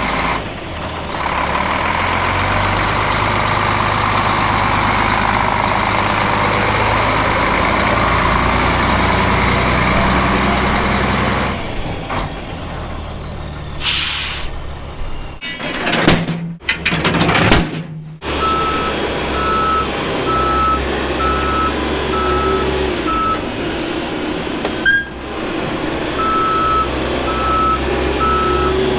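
A heavy vehicle's engine running steadily, with a few loud sharp knocks partway through. Then a backup alarm sounds its single-tone beep about once a second as the vehicle reverses, stops for a few seconds, and starts again.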